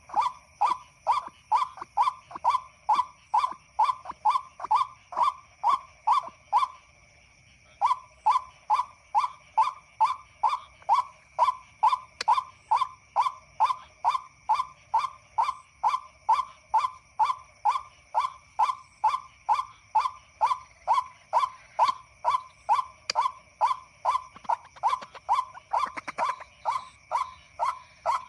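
White-breasted waterhen call repeated over and over, one short note about two and a half times a second, as a hunting lure for the birds. The notes break off briefly about seven seconds in, then carry on as before.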